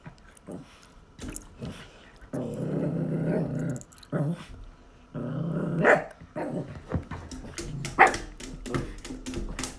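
Dog growling in two long low stretches, then giving several sharp barks, worked up over a cicada it wants to get at.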